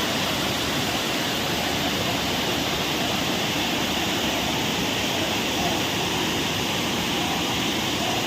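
Large natural waterfall: a steady, loud rush of water falling and crashing.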